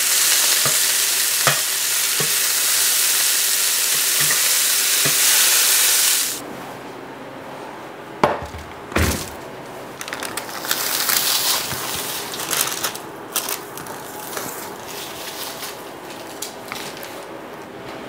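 Hamburger patties sizzling loudly in a cast-iron skillet, with a metal spatula tapping and scraping the pan a few times. The sizzle cuts off about six seconds in; after it come two loud knocks and lighter clatter and rustling of dishes and utensils.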